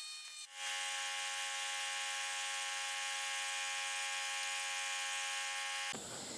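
A small motor running with a steady whine of several tones, like a power tool. It dips and shifts briefly at the start and cuts off abruptly near the end.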